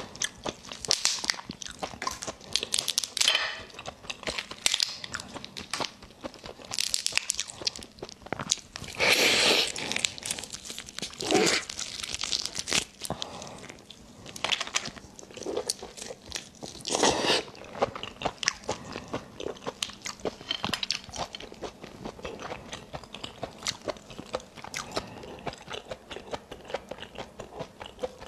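Close-miked eating of raw lobster meat: chewing and biting, a steady run of small mouth clicks and smacks with several louder bursts along the way.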